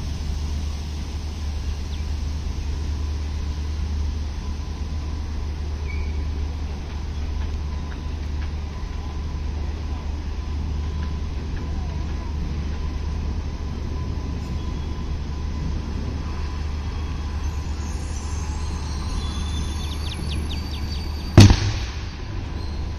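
Low steady rumble of an electric locomotive and its coaches approaching slowly on the track, with one sudden sharp, very loud crack about a second and a half before the end.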